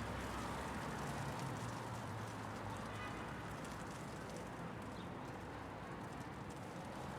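Winter city street ambience: a steady low rumble of traffic with a hiss of hail and faint scattered ticks from hailstones. The rumble eases slightly after about two seconds.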